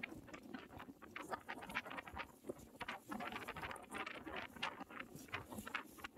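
Wind buffeting and rustling against the microphone, heard as a dense run of irregular crackles.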